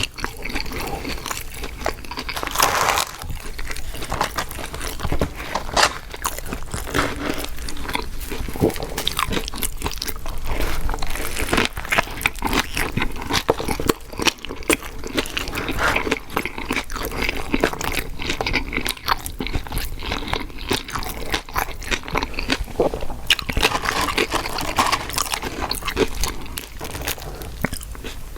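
Close-miked eating: a person biting and chewing crunchy fast food, a dense run of short crunches and clicks with no pause.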